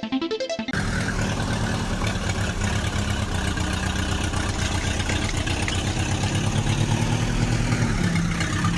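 A vehicle engine sound running steadily with a fast low chugging, its pitch rising a little near the end. A moment of music is heard before the engine sound cuts in, under a second in.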